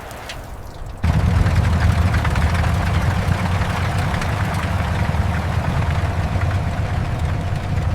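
Large vehicle engine idling: a steady low rumble that cuts in suddenly about a second in.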